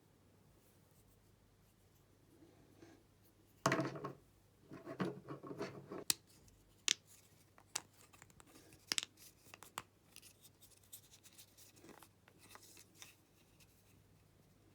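Hands handling small hard objects: a scraping rustle about four seconds in and more scraping just after, then a run of sharp separate clicks and softer rubbing.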